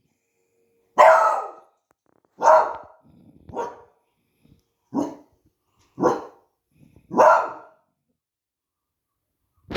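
A pet dog barking, six barks spaced about a second apart, at fireworks on bonfire night. A short sharp crack comes right at the end.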